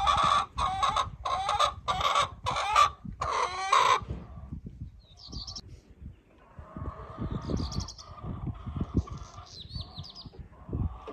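Chickens calling: a run of about six loud, squawking calls in the first four seconds, then quieter, with a few short high chirps and scattered low thumps.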